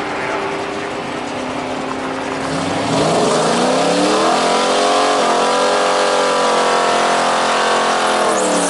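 A drag-racing engine idling steadily, then revving sharply up at launch about two and a half seconds in and running at high revs down the strip, with a brief drop in pitch about five seconds in.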